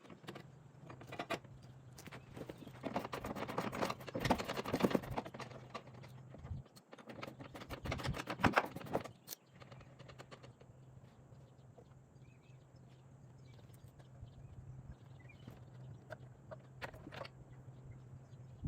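Irregular clicking, clanking and rattling of hand tools on metal while a pickup's rear bumper is unbolted, busiest in the first half and sparser later, over a steady low hum.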